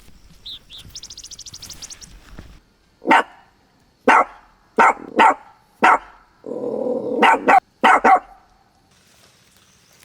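A dog barking: a run of about nine short, sharp barks, some in quick pairs.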